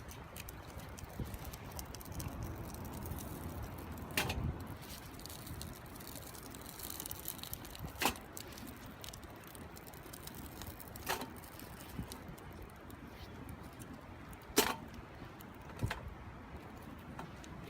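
Wood fire burning in a small wood stove: a low steady rush with about five sharp crackling pops a few seconds apart.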